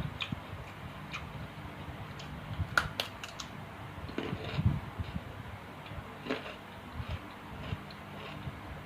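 Eating at a table: scattered light clicks and taps of utensils on dishes, with soft low thuds, over a faint steady hum.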